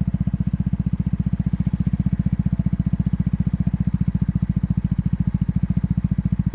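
Kymco Downtown 125i scooter's single-cylinder four-stroke engine idling steadily through a LeoVince aftermarket exhaust. It gives a deep, even putter of about a dozen pulses a second.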